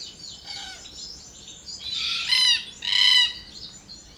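Forest red-tailed black cockatoos calling with creaking squawks: a faint call about half a second in, then two louder calls around two and three seconds in.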